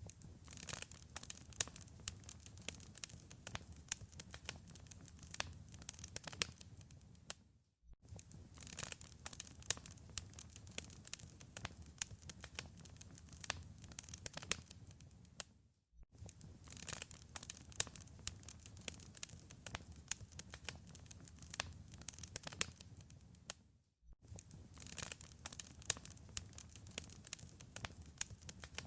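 Wood fire crackling, with many sharp pops and snaps over a low rumble. The sound drops out for a moment about every eight seconds, as a short recording repeats.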